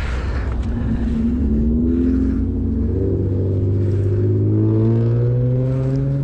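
An engine running and speeding up, its hum rising slowly and steadily in pitch over about five seconds.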